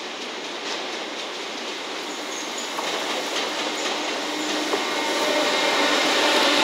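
A freight train behind a JR Freight EF210 electric locomotive rolls past, growing steadily louder as it comes alongside. Its wheels click over rail joints a few times.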